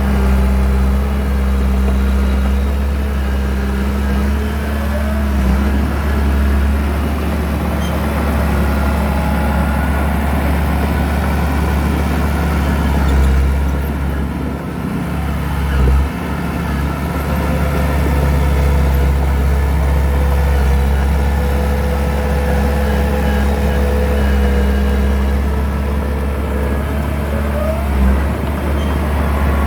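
Heavy diesel earthmoving machinery running steadily with a deep, low engine drone, with a short thump about halfway through and another near the end.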